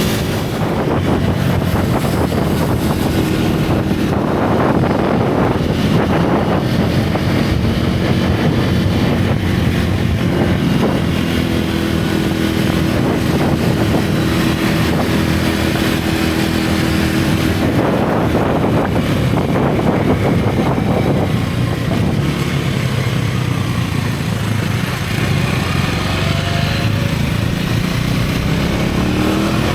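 Single-cylinder motorcycle engine and exhaust running under throttle while riding. The pitch rises and falls with speed, climbing again near the end.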